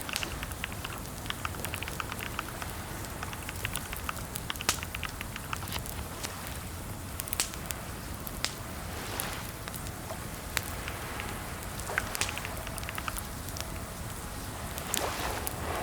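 Computer keyboard typing: irregular clicks of keystrokes, some in quick runs and a few louder single taps, over a steady crackling hiss.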